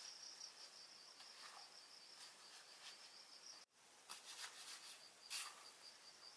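Insects chirping faintly in a steady, high-pitched pulse of about five chirps a second, with a brief dropout a little past halfway and a few soft clicks after it.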